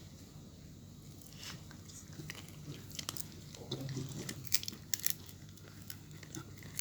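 A dog chewing and crunching food, with sharp crunches that start about a second and a half in and come thicker and louder in the second half.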